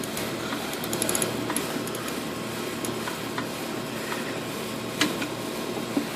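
Scattered clicks and metal knocks of a hand tool working on the compressor's mounting screws, over a steady background hiss; a short run of clicks about a second in and single sharper knocks near the end.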